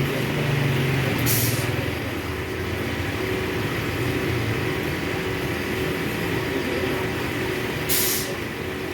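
A machine running steadily with a low hum, with two short hisses, about a second in and near the end.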